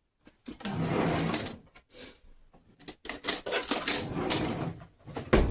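Kitchen handling noises: utensils and containers rubbing and scraping in two stretches, then a sharp knock near the end.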